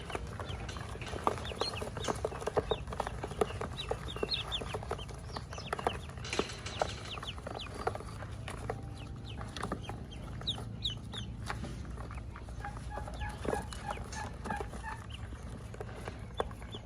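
Ducklings peeping: many short, high calls that slide in pitch, overlapping throughout. Near the end comes a quick run of short, evenly spaced lower calls, over a steady low hum.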